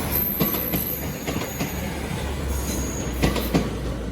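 Class 156 diesel multiple unit pulling out of the station: a low diesel rumble with a handful of sharp wheel knocks over rail joints and points, and a faint high-pitched wheel squeal.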